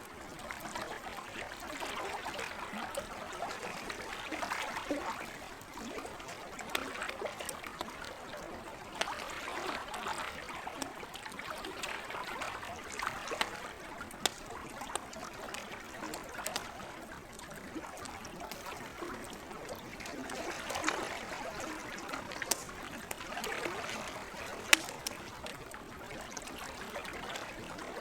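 Lake water lapping and trickling in gentle swells, with a campfire's burning wood crackling in short sharp pops throughout. One pop about three-quarters of the way through is louder than the rest.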